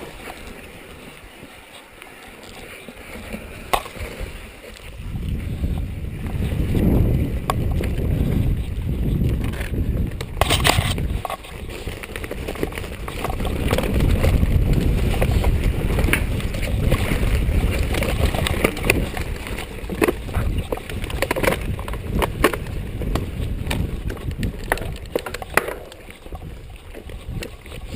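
Mountain bike rolling over a rough cross-country trail: a low rumble of tyres and frame with scattered knocks and rattles, getting louder about five seconds in.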